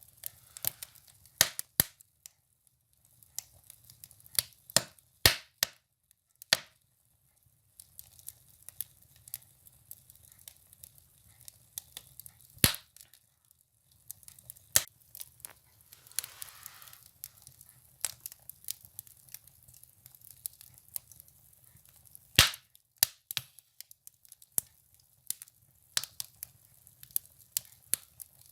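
Firewood burning in a wood stove, crackling and popping at irregular intervals, with two louder pops about halfway through and again near the end.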